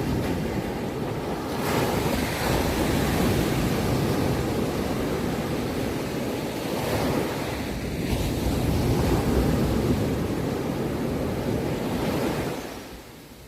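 Ocean surf: a wave breaks and its wash rushes loud and steady for about twelve seconds, then falls away near the end.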